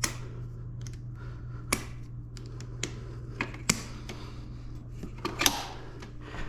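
Irregular sharp clicks and knocks of hand tools on the dirt bike's metal parts, about seven in all, over a steady low hum.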